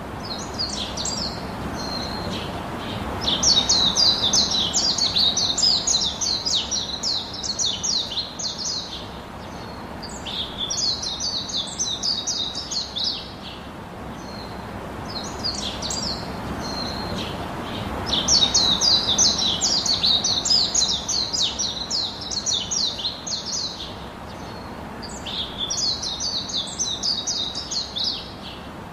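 Small birds chirping in fast, high-pitched twittering phrases a few seconds long, with short pauses between, the same pattern of phrases coming back about every fifteen seconds.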